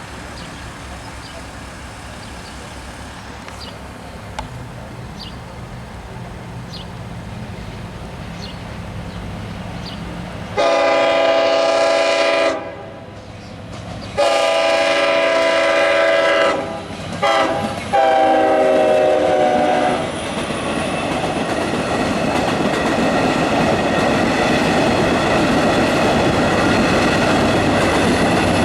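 Long Island Rail Road train approaching a grade crossing and sounding its multi-chime horn in the crossing pattern: two long blasts, a short one, and a final long one. The horn stops as the train arrives and runs past with a steady rumble of wheels on rail.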